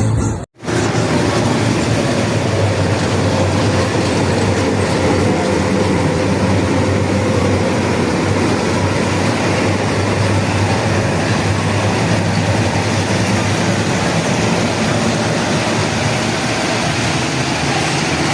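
A heavy vehicle running steadily: a dense, even rumble with a low hum and a faint whine, starting after a sudden cut about half a second in.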